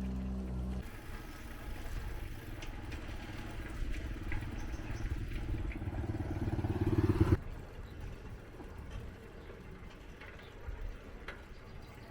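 A small engine running and revving up, rising in pitch and getting louder, then cutting off abruptly after about seven seconds, leaving a faint background.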